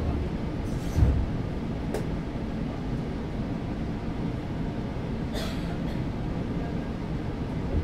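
Steady low hum inside the car of a 115-series electric train standing at a station. A low thump comes about a second in, a light click near two seconds, and a short hiss about five seconds in.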